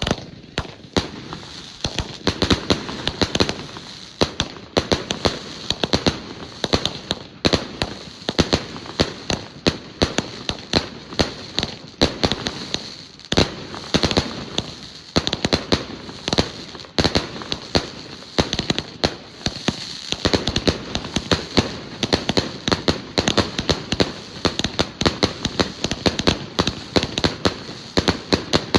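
Fireworks going off in a continuous string of sharp bangs and crackles, several a second.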